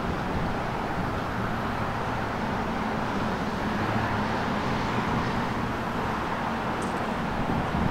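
Coaster commuter train approaching, a steady low rumble of wheels and diesel engine with an even hiss over it.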